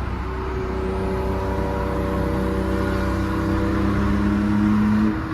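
Car engine running steadily, its pitch and loudness rising slowly and evenly as it gains speed.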